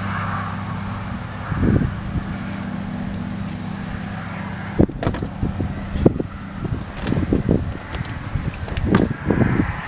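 A motor vehicle engine running steadily, fading out about five seconds in. Then scattered metal clicks and knocks from hand tools working on the truck door's handle bolts.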